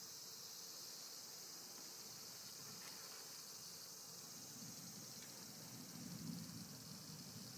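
Faint, steady high chorus of crickets at the campsite. A low rumble joins in over the second half.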